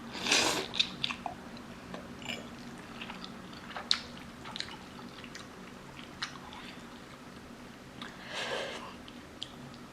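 Close mouth sounds of a person eating spicy instant noodles: chewing with small wet clicks. There is a short hissing sound about half a second in and another near the end.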